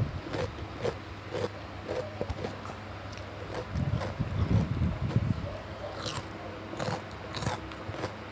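A person biting and chewing crunchy raw vegetables in irregular crisp crunches, about one or two a second, with softer wet chewing between them.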